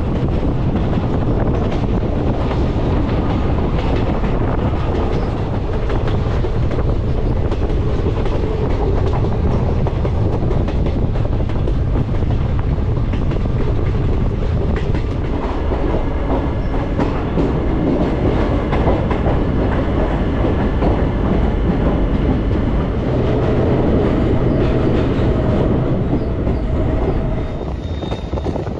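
Passenger train's coaches running along the track, heard from an open coach doorway: a steady rumble with wheels clicking over rail joints. The sound drops somewhat shortly before the end.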